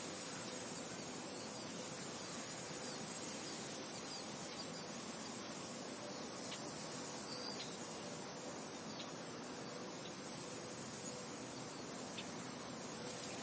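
Steady wind noise, an even white-noise-like rush, with a few faint short high chirps from about halfway on.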